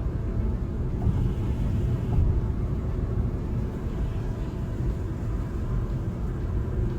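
Steady low rumble of strong wind buffeting the microphone.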